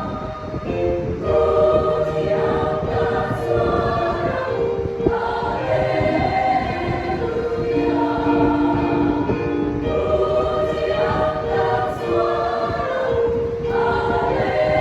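A church choir singing a hymn in several voice parts, moving through held notes.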